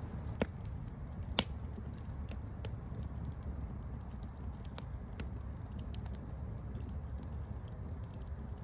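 Wood campfire crackling: a steady low rumble of the burning fire with scattered sharp pops and snaps, the loudest pop about a second and a half in.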